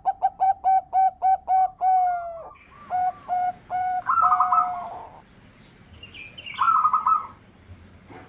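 Zebra dove (perkutut) singing: a fast run of short repeated cooing notes, then a few slower spaced notes, with higher trilled notes in the middle and again near the end.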